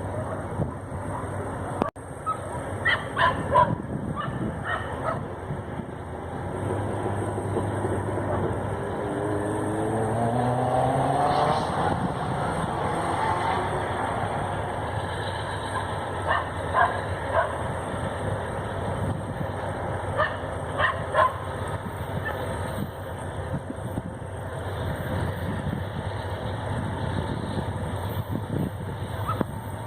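Freight train passing: diesel locomotives running with a steady low rumble and a rising whine about ten seconds in. Clusters of short sharp sounds come near the start and again twice in the second half.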